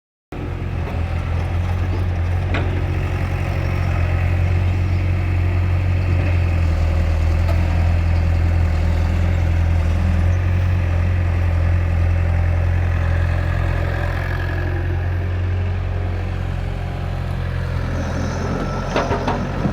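Tractor diesel engine running steadily with a strong low hum, a tractor working under a full load. A few sharp clicks come near the end.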